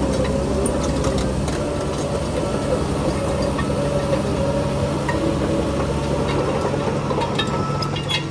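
Heavy diesel engine of earthmoving machinery running steadily, with scattered light metallic clanks.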